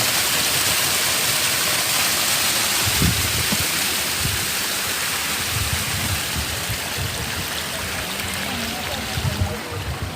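Flowing water rushing steadily in a stream, with a hiss that eases off near the end and a few low knocks.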